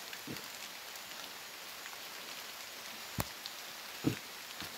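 Steady rain falling, with a few heavy drops landing with sharp thuds, the loudest about three seconds in and again about four seconds in.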